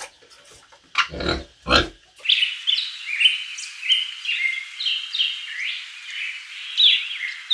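A pig grunting twice in short bursts, then from about two seconds in a dense chorus of many small birds chirping, high and overlapping.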